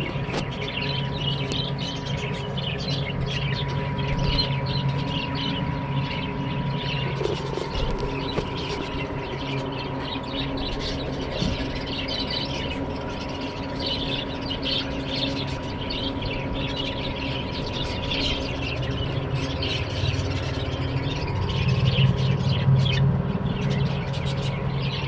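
Budgerigars chattering with many quick chirps and squawks, over a steady low hum that swells briefly near the end.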